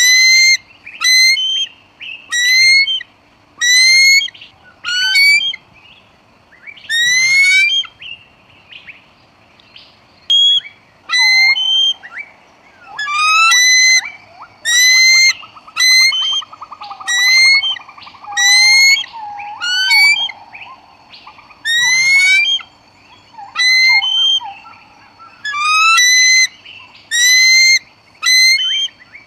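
A bird calling over and over, a short high call rising in pitch about once a second, with a fainter, lower wavering call from about 11 to 24 seconds in.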